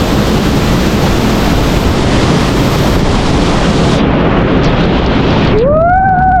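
Waterfall, a loud, steady rushing roar of falling water. Near the end a single long pitched tone rises, holds and then falls over the roar.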